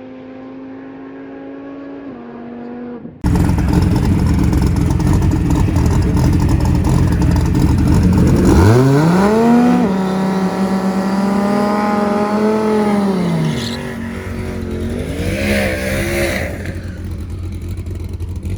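Dodge Viper V10 drag car engine: steady engine tones, then loud engine noise starting suddenly about three seconds in. Near the middle the pitch sweeps up, holds for a few seconds and falls away, with a shorter rise near the end.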